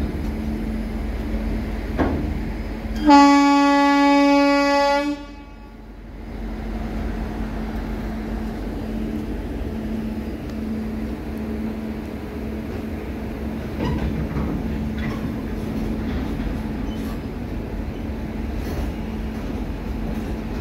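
Loaded freight wagons rolling past: a steady rumble of steel wheels on rail, with occasional clicks over rail joints. About three seconds in, a locomotive horn sounds one steady blast lasting about two seconds, then cuts off.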